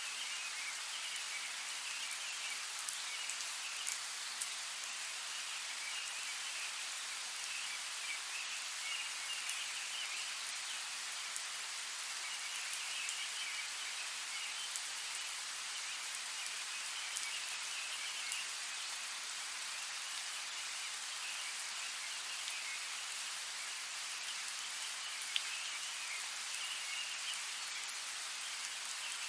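Steady rain falling in a forest, with scattered louder drops striking leaves. Underneath runs a patchy high-pitched chirring that comes and goes.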